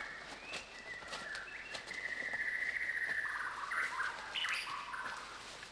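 Wild bird singing, with whistled and warbling phrases and a long held warble in the middle, and a few faint clicks alongside.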